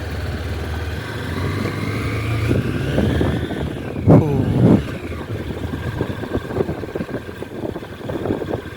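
Honda CB200X's 184 cc air-cooled single-cylinder four-stroke engine pulling away and revving up over the first few seconds. There is a brief louder surge about four seconds in, then it runs on steadily while riding over a broken road.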